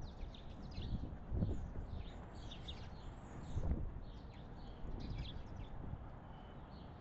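Several small songbirds chirping and twittering in quick short calls, with a few dull low thumps about one and a half and nearly four seconds in.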